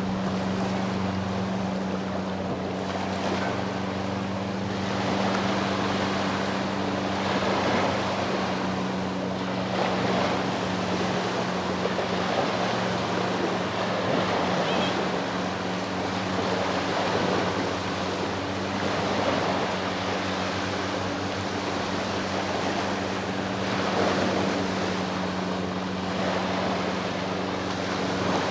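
Sea waves washing ashore in repeated surges every few seconds, with a boat engine's steady low hum running underneath.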